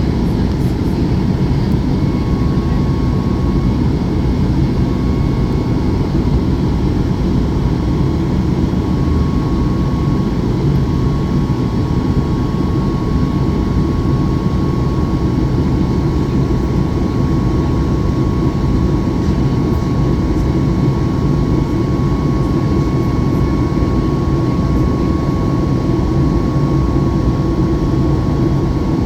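Jet airliner cabin noise while climbing: a steady, loud rumble of engines and airflow with a thin, constant whine above it.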